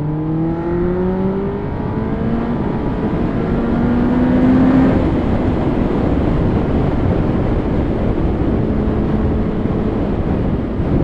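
Kawasaki ZX-10R sportbike's inline-four engine accelerating under way, its note rising for about five seconds, then steady wind and road rush at speed with the engine holding a constant note.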